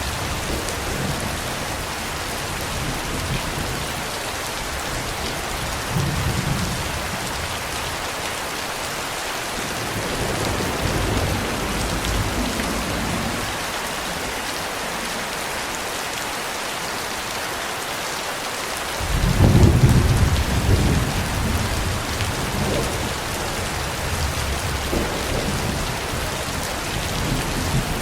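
Steady heavy rain with rolls of thunder: low rumbles swell a few times, and the loudest peal breaks out about two-thirds of the way in, then rumbles away over several seconds.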